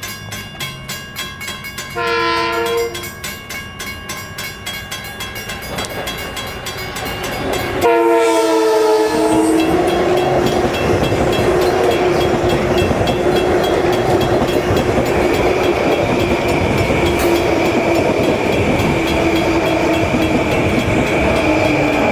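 Train horn sounding a short blast about two seconds in and a longer one about eight seconds in, after which the train passes close with a loud, steady rumble and wheel noise.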